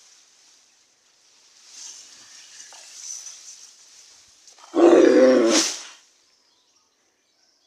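A cow mooing once, a single loud call of just over a second about five seconds in, after some faint rustling.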